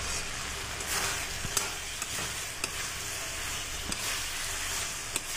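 Chickpeas and cauliflower in spice masala sizzling in a kadhai as a spatula stirs them. The spatula scrapes and clicks against the pan now and then.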